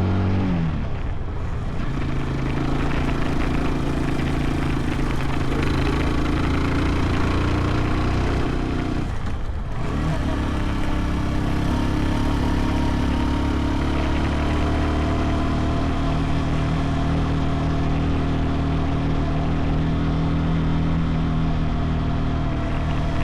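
SYM NH180 motorcycle engine running while riding, with wind and road noise. The engine note falls about a second in, dips briefly again near the middle, then holds steady.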